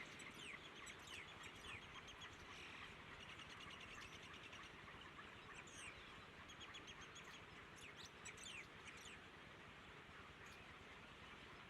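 Small birds chirping faintly in quick runs of short high notes, over a steady background hiss.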